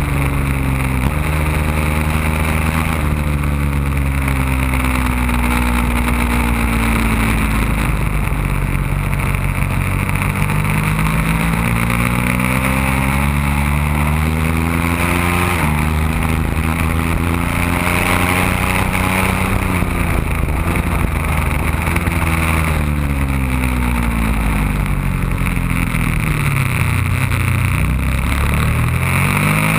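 Ducati Panigale sport-bike engine at high revs on track, its pitch climbing through the gears with sudden drops at the upshifts. Near the end it falls away off the throttle and then climbs again. A steady rush of wind runs underneath.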